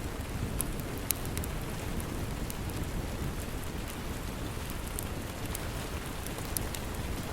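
Steady rain, a deep even wash, mixed with a wood fire crackling. There are a few sharp, scattered pops, the loudest about a second in.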